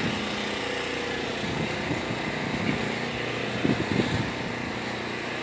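An engine running steadily at a constant speed, with a few soft knocks a little before four seconds in.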